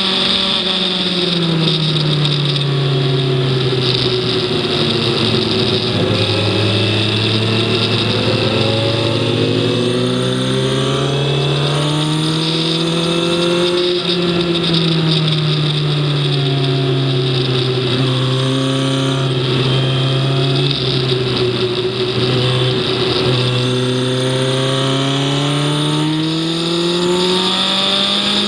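Racing vehicle engine lapping a circuit. Its revs fall and climb in long sweeps: down over the first few seconds, up again toward about 14 seconds in, down once more, and rising again near the end.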